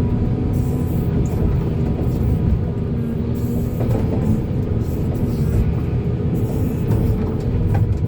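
Volvo excavator's diesel engine running with a steady heavy rumble, with a couple of faint knocks.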